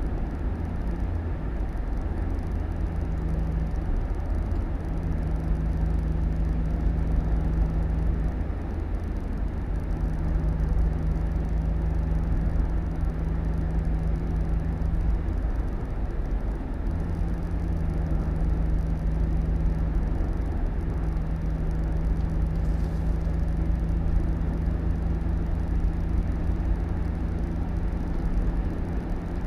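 Road vehicle running steadily: a low rumble with a steady engine hum that drops away briefly a few times.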